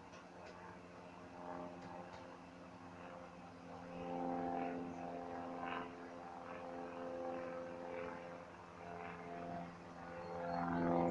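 Piper towplane's piston engine and propeller running at a steady pitch, growing louder about four seconds in and swelling again near the end.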